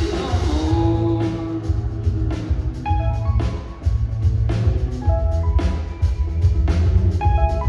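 Indie rock band playing live, an instrumental stretch without vocals: drum kit strokes over heavy bass, with guitar notes.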